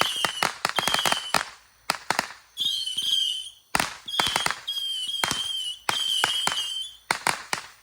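A multi-shot consumer firework cake firing in rapid volleys of sharp cracks and bangs, with several high, steady whistles of about a second each among the shots.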